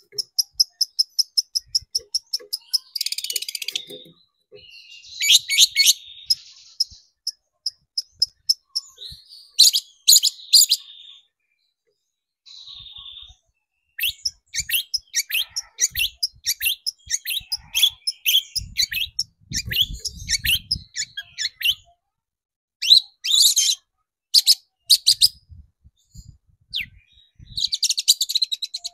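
Long-tailed shrike (cendet) singing a loud, varied song: fast trains of sharp, high chips and whistled notes broken by harsh, scratchy chattering bursts, with a short pause about halfway through.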